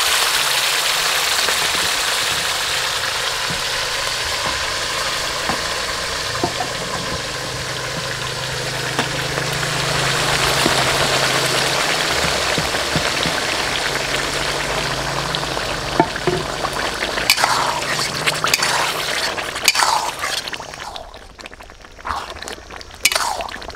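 Mutton and its gravy being ladled into hot oil in an iron karahi and fried down, a steady sizzle that fades after about seventeen seconds, then scrapes and clinks of a metal spatula stirring against the pan.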